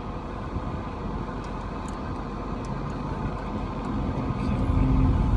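Car road noise heard from inside the cabin: a steady low rumble of engine and tyres that grows louder over the last couple of seconds.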